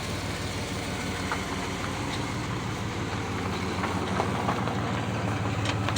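A motor vehicle engine running steadily at an even pulse.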